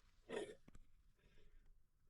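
Near silence: quiet room tone, broken by one short, soft noise about a third of a second in.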